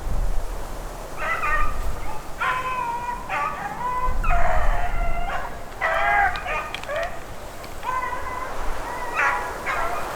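Beagles baying on a rabbit's trail: a run of drawn-out, wavering calls, several voices overlapping, the sign that the pack is running the rabbit. Wind rumbles on the microphone underneath.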